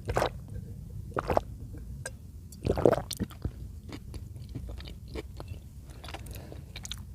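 Close-miked, wet, squishy chewing of chicken in cream sauce, with small mouth clicks throughout and stronger smacks near the start, about a second in, and loudest just before three seconds.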